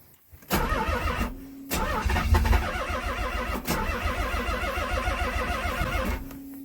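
Car engine being cranked over by its starter on a cold start without catching: a short crank, a brief pause, then a longer steady crank of about four and a half seconds that stops without the engine running. A steady hum is left once the cranking stops.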